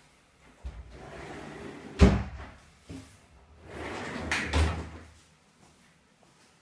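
A door being moved: a rubbing scrape ending in a sharp knock about two seconds in, then a second, longer scrape ending in a softer knock.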